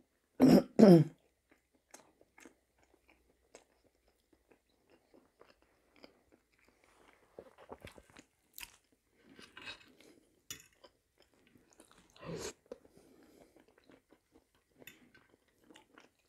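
Close-miked chewing and small mouth sounds of a person eating fried potatoes and a stuffed pepper, with scattered faint clicks. A short vocal sound comes about half a second in.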